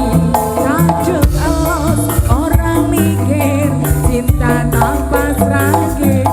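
Live East Javanese jaranan music: steady drumming and percussion under a bass line, with a melody that wavers and slides in pitch.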